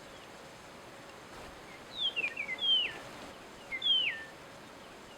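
A songbird calling: a few short chirps and three clear whistles that each slide down in pitch, about two to four seconds in, over a faint steady outdoor hiss.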